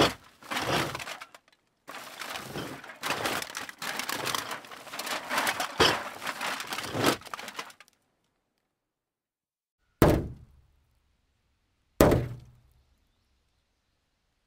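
A dense crunching, rattling clatter lasting about six seconds stops, and after a pause come two separate heavy thunks two seconds apart, each dying away quickly with a low ring.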